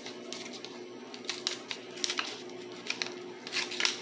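Small crinkles and clicks from a tea packet being handled and opened, irregular and sharp, over a steady low hum.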